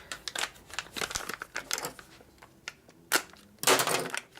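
Parts being rummaged through and handled by hand: a run of light clicks and clinks, a sharp snap a little past three seconds, then a louder rough rustle near the end.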